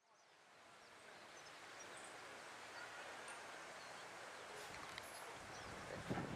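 Faint outdoor ambience fading in from silence: a steady low hiss with scattered short bird chirps. A couple of sharp knocks come right at the end.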